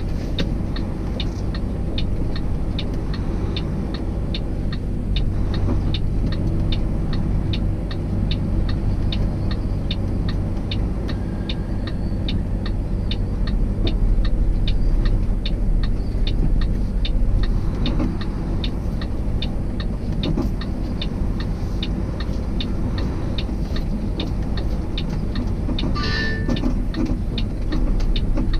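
Truck engine running steadily, heard from inside the cab, with a light regular clicking about three times a second throughout. A short higher-pitched sound comes near the end.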